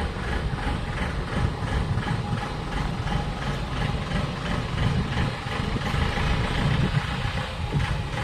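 Heavy engine idling steadily with a low rumble.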